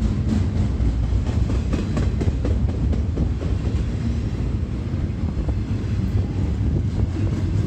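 CSX intermodal freight train rolling past: a steady low rumble of steel wheels on rail, with scattered clacks of wheels crossing rail joints.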